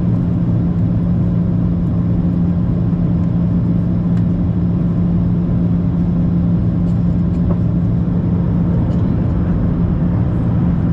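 Steady cabin noise inside a Boeing 737-700 airliner in flight: its CFM56-7 turbofan engines and the airflow make a constant drone with a low steady hum running through it.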